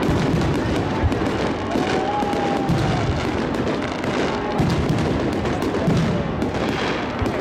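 Aerial firework shells bursting one after another in a dense, continuous barrage of bangs and crackling.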